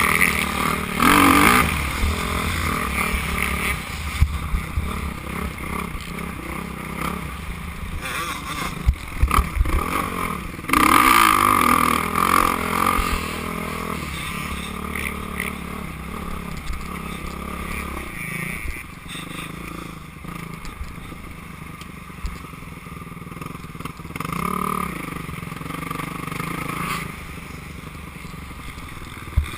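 Dirt bike engine revving up and backing off as it is ridden around a motocross track, with loud surges near the start and about eleven seconds in. Sharp clattering knocks come about nine to ten seconds in.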